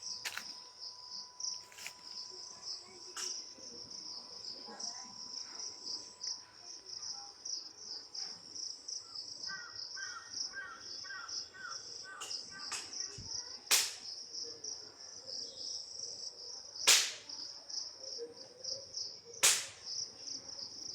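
Crickets chirping in a steady, fast pulsing trill, with several sharp clicks or knocks at irregular intervals.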